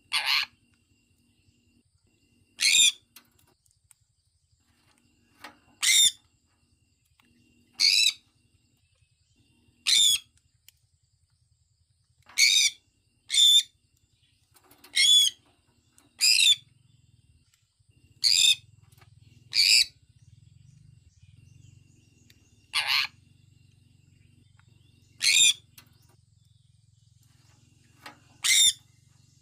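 Sun conure calling: about fourteen short, shrill chirps, one every two seconds or so, some coming in close pairs.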